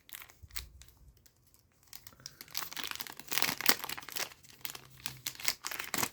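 A foil trading-card booster pack being torn open and crinkled by hand: scattered crackles at first, then a dense stretch of crinkling and tearing through the second half.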